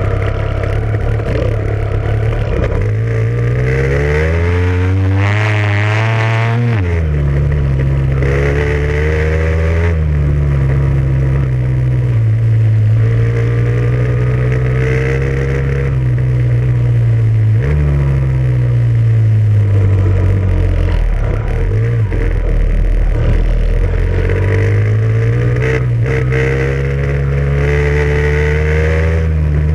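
Off-road vehicle engine running under load, its pitch climbing as it accelerates and dropping sharply back at each gear change, several times over.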